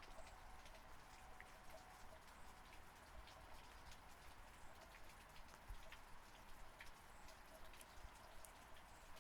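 Faint, steady rain, with individual raindrops ticking sharply and irregularly over a soft hiss.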